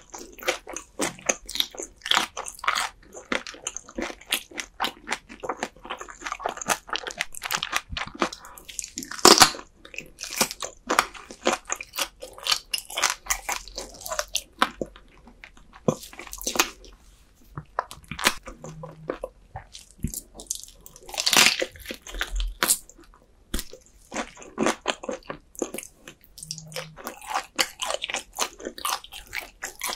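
Close-miked chewing and crunching of whole raw dotted gizzard shad sashimi eaten bones and all: dense, crisp crunches with bites. The loudest bites come about nine and twenty-one seconds in.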